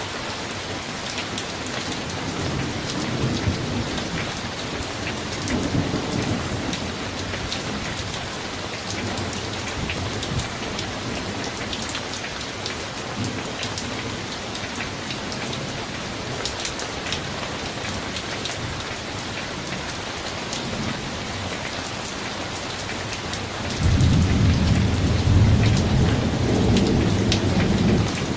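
Summer thunderstorm: steady heavy rain with low rumbles of thunder, and a louder thunder rumble that starts suddenly near the end.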